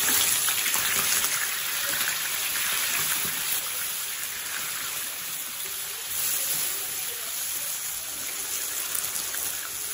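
Raw chicken pieces sizzling in hot oil as they go into the pan and are turned with a wooden spatula. The sizzle is loudest at first and settles to a steady hiss.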